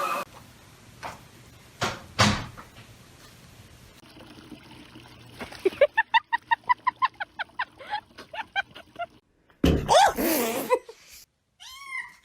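Two knocks, then a rapid run of short chirping animal calls, about four a second for some three seconds. A louder gliding call follows, then one short arched call near the end.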